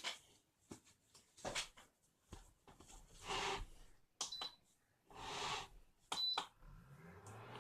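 Induction cooker being connected to the supply and switched on for a test after a fan replacement: scattered handling knocks and rustling, two short high beeps from the cooker about four and six seconds in, and a low hum starting near the end.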